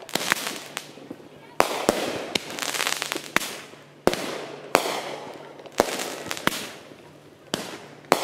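Aerial fireworks shells bursting in quick, uneven succession, about a dozen sharp bangs. Each bang trails off in a fading wash of noise over about a second.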